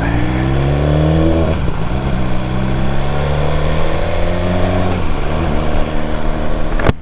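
BMW S1000R motorcycle's inline-four engine pulling up through the revs under way, with the pitch dropping at two upshifts. There is a sharp click just before the end.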